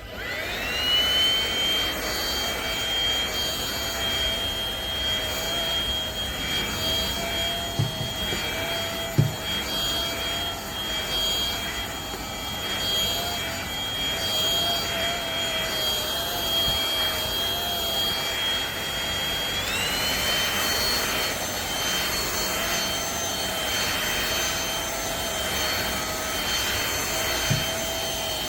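Eureka NEU350 upright vacuum cleaner's motor spinning up with a rising whine, then running steadily with a high whine; about twenty seconds in the pitch steps up a little and holds. A few faint knocks come about eight and nine seconds in.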